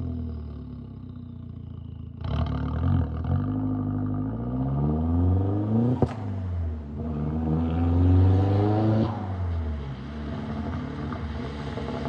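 Straight-piped, turbocharged 1.8-litre four-cylinder of a VW Jetta Mk4 revving and accelerating, its pitch rising in pulls, with a sharp crack about six seconds in and a drop in revs about nine seconds in.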